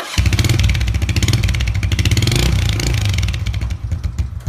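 Honda Cub-type moped's single-cylinder four-stroke engine revved hard, a loud, fast exhaust pulsing through a muffler that has been drilled and fitted with a riveted piece to make it louder. It starts suddenly and eases off in the last second or so.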